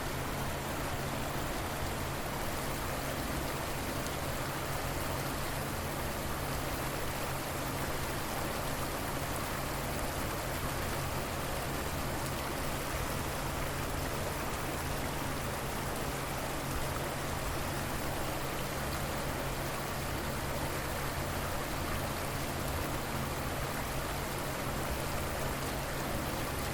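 River water flowing steadily, an even rush of water with no change.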